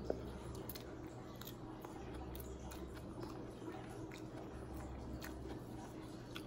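Faint chewing with small wet mouth clicks as a mouthful of food is eaten, over the steady low hum of an aquarium in the room.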